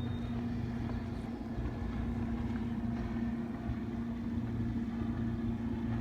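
A boat engine running with a steady low drone and an unchanging hum.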